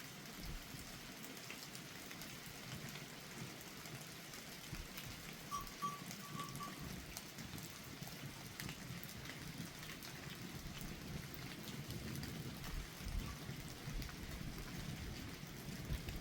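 Steady rain falling, with many individual drops striking close by as scattered sharp ticks. About five and a half seconds in there is a brief run of short high chirps.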